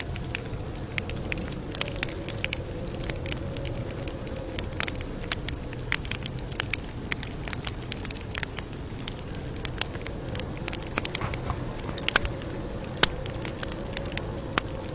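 Campfire crackling: frequent, irregular sharp pops and snaps of burning wood over a steady low rush of the fire.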